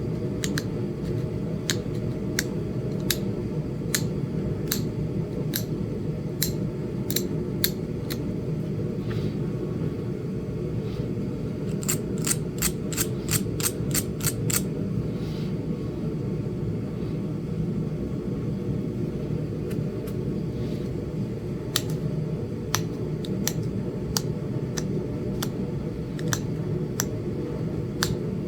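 Sharp clicks of flintknapping, a tool working the edge of a small Flint Ridge chert point, coming irregularly with a quick run of them about twelve seconds in. A steady low hum runs underneath.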